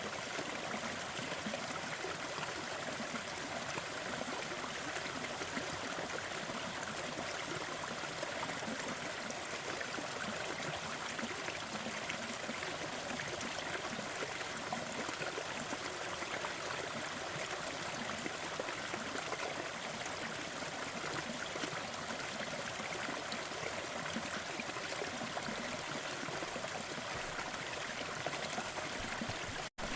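Waterfall: a steady, even rush of falling water, its hiss sitting mostly in the middle and upper range. It cuts out for a split second near the end.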